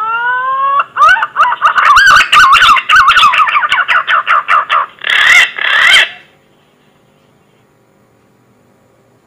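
Green pigeon (punai) call: a rising whistle, then a fast run of wavering whistled notes, ending in two louder notes about five and six seconds in before it stops.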